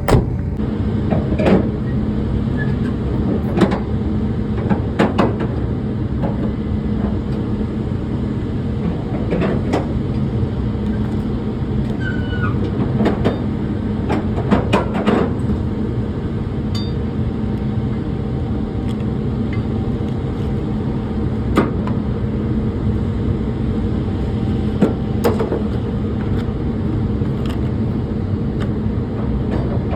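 An engine idles with a steady hum, with scattered knocks and clunks over it while a truck is being unloaded.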